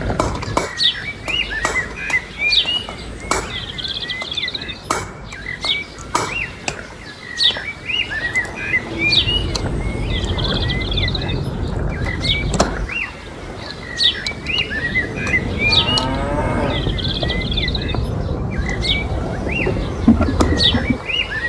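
A cow mooing, with small birds chirping over and over and scattered sharp clicks.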